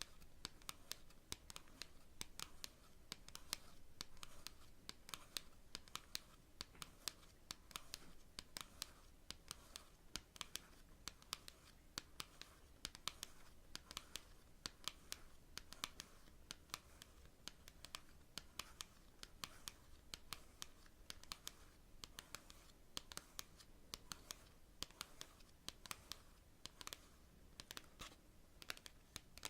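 Long natural fingernails tapping on cards: quick, irregular clicks, several a second, with a stretch of softer nail scratching a few seconds in.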